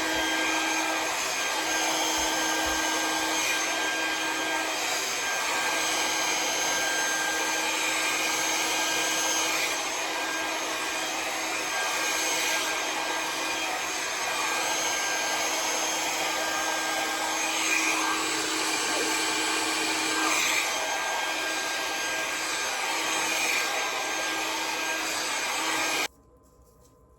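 Conair hair dryer with a nozzle attachment running steadily: a rush of air with a constant hum, blowing hair over a round brush. It switches off abruptly near the end.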